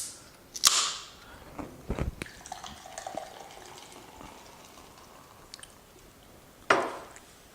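A cola being opened: a sharp crack with a fizzing hiss that dies away about a second in, then a dull knock and faint liquid and fizzing sounds. Another short, sharp burst comes near the end.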